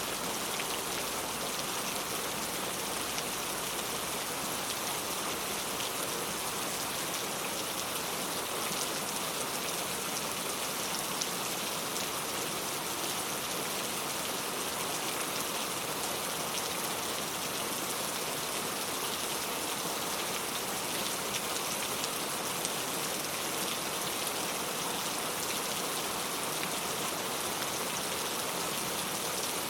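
Heavy rain falling steadily, a dense even hiss of many drops spattering on surfaces.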